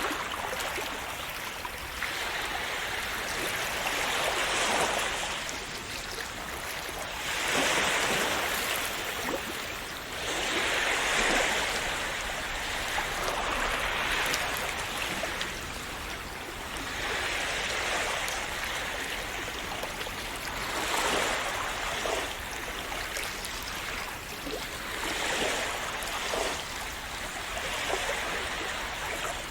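Small sea waves washing onto the shore. The splash swells and eases about every three to four seconds, in a continuous rushing of water.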